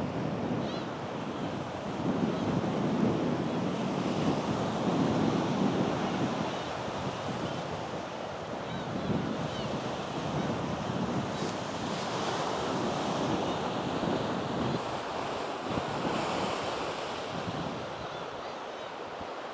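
Strong coastal wind gusting over the microphone, surging and easing every few seconds, with sea surf breaking underneath.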